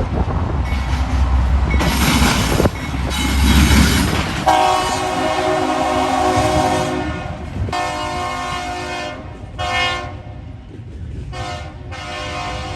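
Diesel freight locomotive's multi-chime air horn sounding the grade-crossing signal: two longer blasts, a short one, and a final long one starting near the end. Before the horn there is the rumble of the approaching train.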